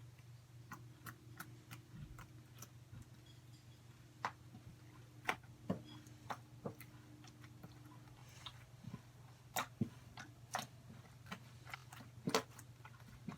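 Slime being squished and poked, giving irregular small clicks and pops, a few of them louder, over a faint steady low hum.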